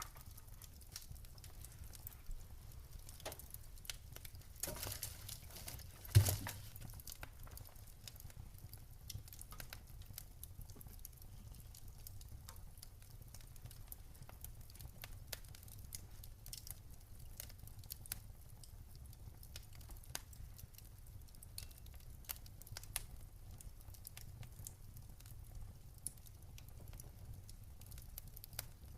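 Wood fire crackling in a fireplace, with irregular small snaps and one loud pop about six seconds in, over a low steady rumble.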